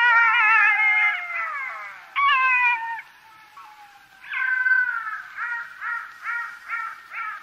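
Black-backed jackal calling: a few high, wavering wailing howls, then a quick run of short yaps, about two to three a second.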